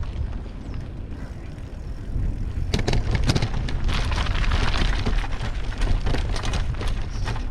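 Mountain bike riding over a rough trail of loose rocks, with wind buffeting the microphone. From about three seconds in, the bike gives a dense, irregular rattle and clatter as it jolts over the rocks.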